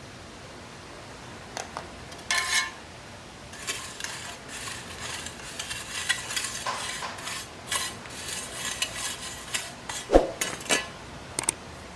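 Irregular light clinks, taps and scrapes of small hard objects being handled, busier after the first few seconds, with one sharper knock near the end.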